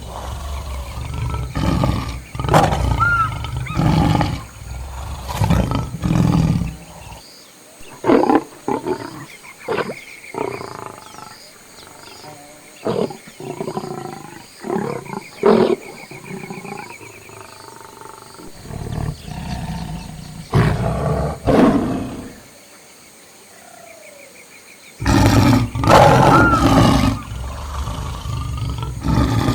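Lions roaring and growling, deep and loud for the first several seconds and again near the end, with a quieter stretch of shorter, separate calls in between.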